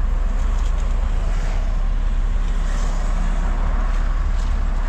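Steady low rumble of a car heard from inside the cabin, with no clear changes.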